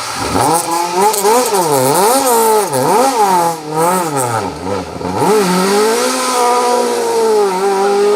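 Ford Escort MK2 rally car engine revving hard, its pitch rising and falling sharply about once a second several times, then held high and steady for the last few seconds.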